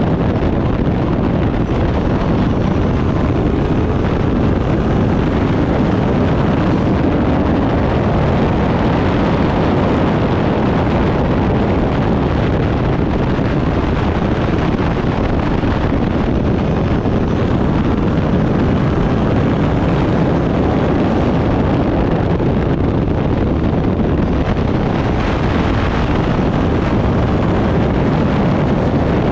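Turbocharged Backdraft Cobra race car running at speed: a loud, steady roar of engine and wind noise with heavy wind buffeting on the microphone, swelling slightly now and then.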